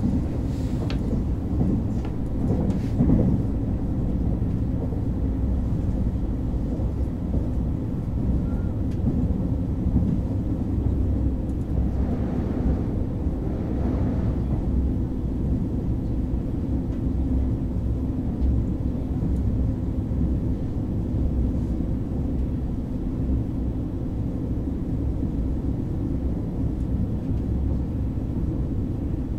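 Steady low rumble of a KTX train running along the line, heard from inside the passenger carriage with the microphone against the window. There are a few sharp clicks in the first few seconds.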